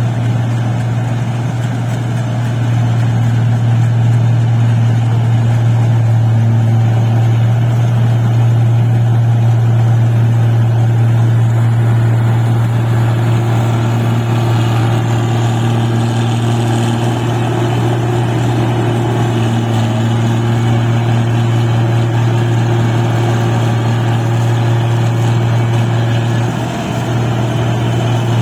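Paddy harvesting machine's engine running steadily under load, a loud, even low drone that dips briefly near the end.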